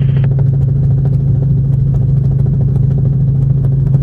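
Helicopter engine and rotor noise heard from inside the cabin: a loud, steady drone with an even low hum.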